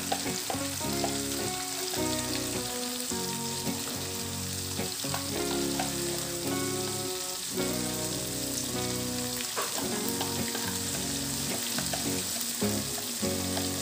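Coarsely ground green chili paste frying in hot oil in a stainless steel pan, a steady sizzle. Background music with held notes changing every second or so plays under it.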